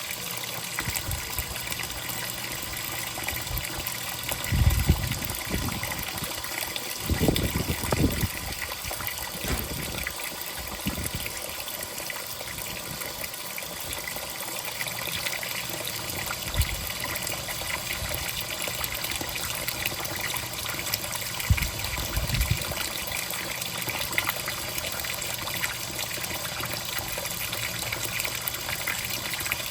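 Water running and sloshing in the tub of an Electrolux top-loading washing machine during the fabric-softener rinse, with a few low thumps.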